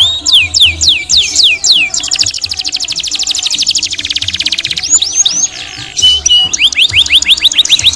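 Domestic canary singing a rolling song: phrases of repeated swooping whistled notes, a long, very fast trill through the middle, then another run of quick rising and falling notes near the end.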